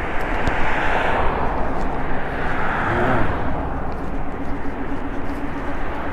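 Steady rush of wind and road noise from a moving e-bike, with a faint steady hum coming in about four seconds in.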